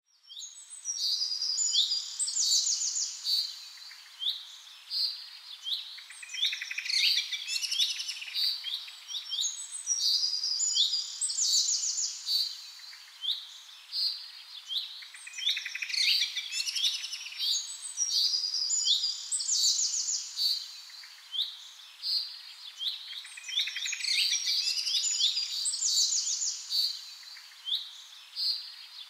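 Songbirds chirping and singing, with clusters of quick trills and high chirps every few seconds.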